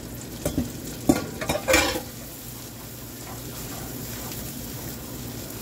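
Chopped onions and garlic frying in bacon grease in a wok skillet, sizzling steadily while a wooden spatula stirs them, knocking and scraping against the pan a few times in the first two seconds.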